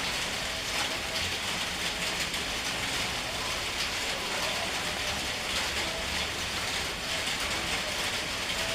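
Several cats crunching dry kibble: a steady, dense crackle of small crunches with no pause.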